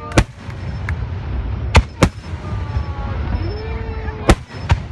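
Aerial fireworks bursting: five sharp bangs, two close together about two seconds in and two more near the end.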